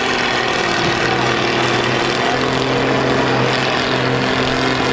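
Combine harvester engines running steadily in a demolition derby, a continuous engine drone with no sharp crashes.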